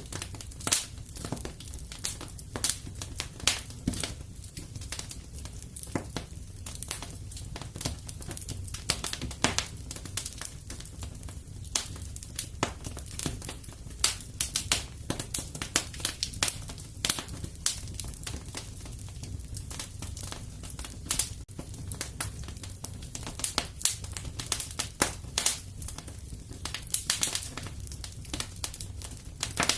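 Wood fire burning in a fireplace: a steady low rumble of flames with frequent sharp, irregular pops and crackles from the burning logs.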